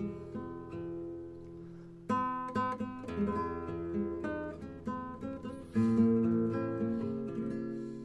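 Acoustic guitar music: plucked and strummed notes, with louder strummed chords coming in about two seconds in and again near six seconds.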